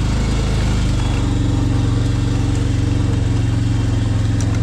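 Small off-road vehicle's engine running steadily at an unchanging pitch.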